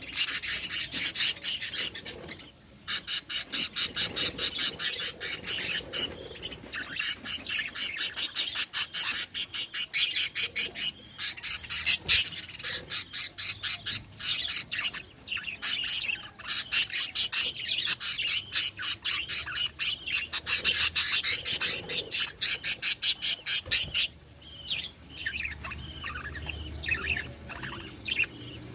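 Budgerigars chirping in fast, even runs of about ten chirps a second, lasting several seconds each with short breaks between. About four seconds from the end they change to looser, varied chirping and warbling.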